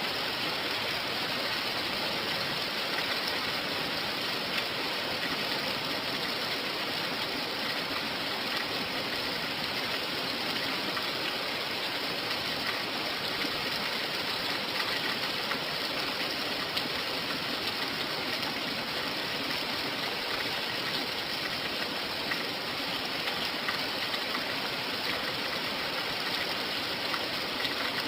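Steady rain falling: an even hiss with fine scattered ticks of drops, unchanging throughout.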